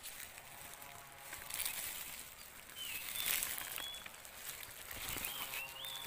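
A small bird calling in two short runs of thin, high whistled notes that slide up and down, one about three seconds in and another near the end, over the rustle and crunch of dry leaves and grass underfoot.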